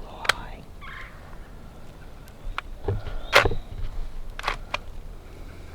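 Wild turkey gobbling: a short rattling burst about three seconds in, with a few other sharp clicks scattered around it.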